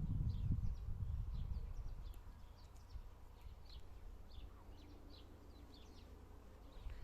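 Outdoor ambience with many short, high chirps scattered throughout, over a low rumble that fades after about two seconds.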